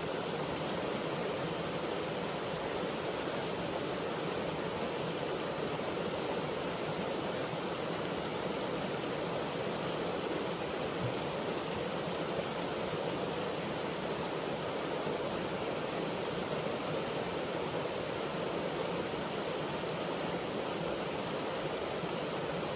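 Brook running over rocks: a steady, unbroken rushing of water.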